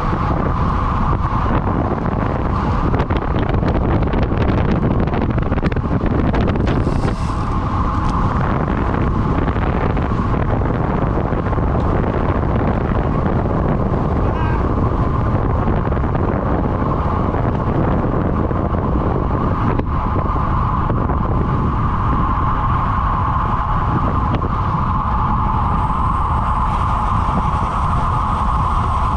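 Steady wind noise buffeting the microphone, with a constant low rumble and an unbroken hum in the middle range, as from riding along at speed.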